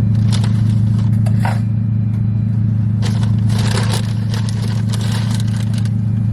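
Steady low drone of a car's running engine heard inside the cabin, with irregular rustling and scraping, heaviest about three seconds in.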